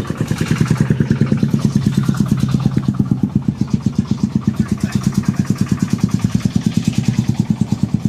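A truck's engine running steadily, with an even fast chugging beat of about nine pulses a second over a low hum.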